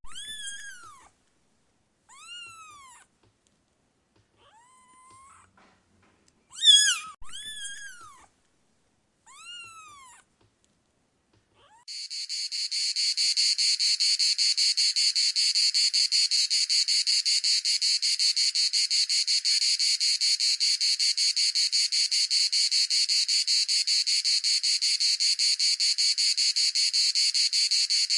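A cat, likely a kitten, meowing: five short, high calls that rise and fall, spread over about ten seconds. About twelve seconds in, a steady, rapidly pulsing insect trill, like a cricket's, starts abruptly and carries on unbroken.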